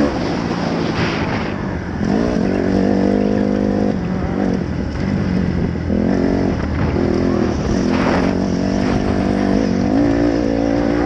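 Dirt bike engine running under load, its revs repeatedly climbing and then dropping every few seconds as it is ridden through the gears.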